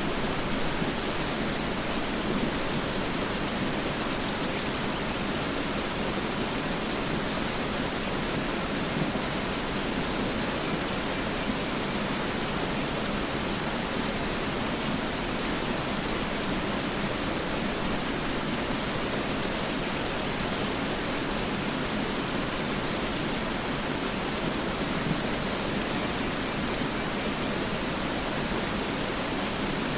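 Mountain river flowing, a steady unbroken rush of water.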